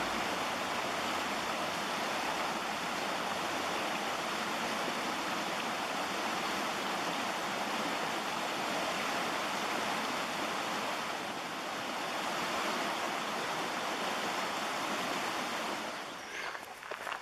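Mountain stream water rushing in a steady, even roar. Near the end the rush fades and footsteps begin.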